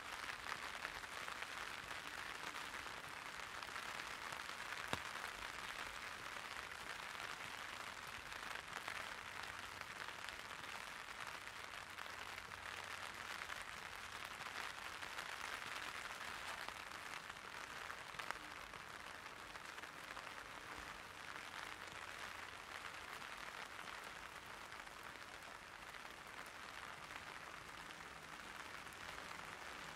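Light rain pattering steadily on an umbrella: a dense, even patter of drops, with a couple of louder single drops, one about five seconds in and one past the middle.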